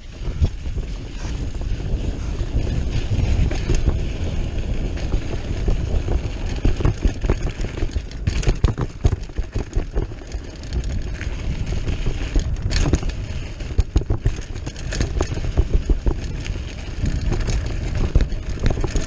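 Mountain bike ridden fast along a dirt trail, heard from a chest-mounted camera: steady wind rushing over the microphone and tyres on the ground, with frequent knocks and clatter from the bike over bumps.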